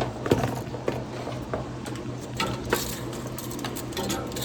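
Irregular small clicks, taps and rattles of objects being handled, over a steady low hum.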